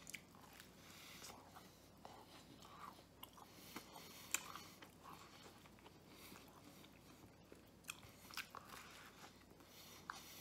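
Faint close-up chewing of soft garlic-pesto bread bites: wet mouth smacks and small clicks at an irregular pace, a few sharper ones along the way.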